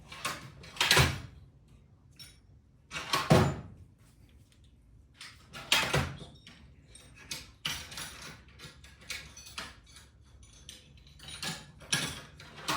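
Metal tools and parts clanking as they are handled: three loud clanks about a second, three seconds and six seconds in, then a string of lighter clicks and knocks.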